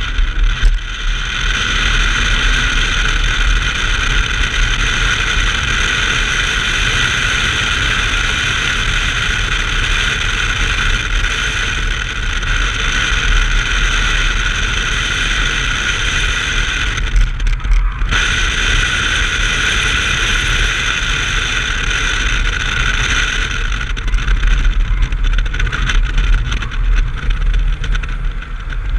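A 1990 BMW 325i's straight-six running at speed on track, heard as a steady engine and wind drone. It drops briefly about two-thirds of the way through and eases toward the end.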